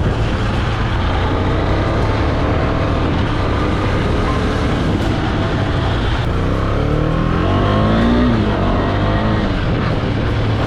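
Single-cylinder 250cc motorcycle engine running steadily, rising in pitch as it revs up about two-thirds of the way through.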